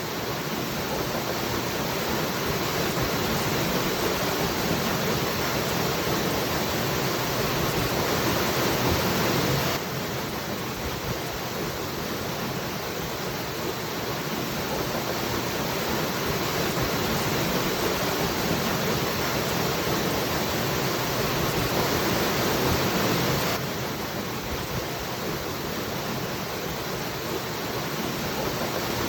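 A waterfall rushing with a steady, dense roar of falling water. The sound drops suddenly a little in level about ten seconds in and again near twenty-four seconds, then builds back up.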